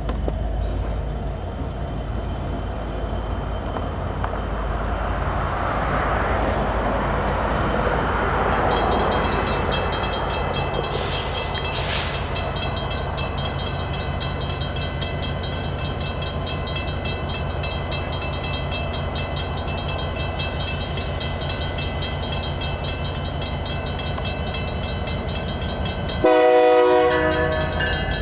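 EMD SD59MX diesel locomotives rumbling steadily at a railroad crossing. About a third of the way in, the crossing bell starts ringing in fast, even strokes. Near the end, the locomotive's multi-chime air horn sounds one loud, short blast.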